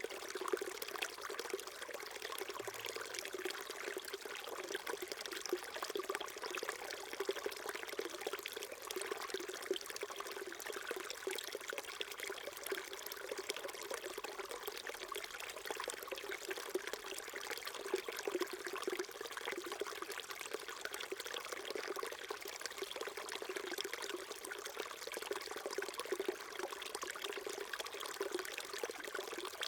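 Small stream trickling and burbling over stones, a steady flow with no pauses.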